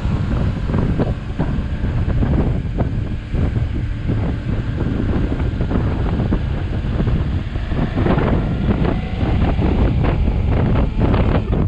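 Heavy wind buffeting the microphone of a camera on a moving motorcycle, a steady low rumble with gusty flutters.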